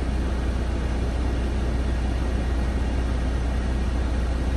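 Newly installed cab HVAC blower motor running steadily, air rushing from the dash vents, over a steady low hum; the fresh blower is working properly.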